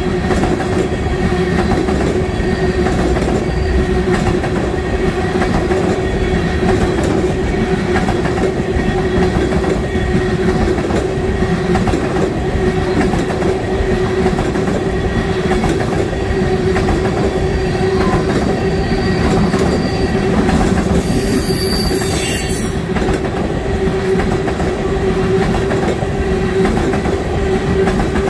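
Tank cars of a freight oil train rolling past at close range: a steady rumble of steel wheels with a regular clickety-clack over the rail joints. A steady squealing tone from the wheels runs through it.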